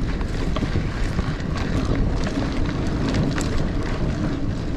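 Niner Air 9 RDO 29er mountain bike rolling over sandy singletrack: a steady tyre rumble and wind on the microphone, with scattered clicks and rattles from the bike.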